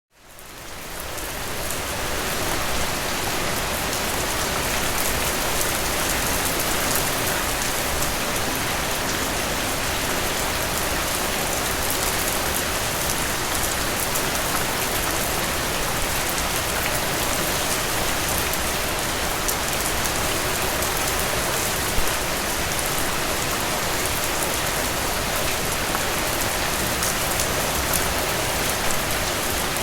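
Steady rain falling, with scattered sharper drop ticks among the hiss. It fades in over the first couple of seconds, and one drop lands a little louder about two thirds of the way through.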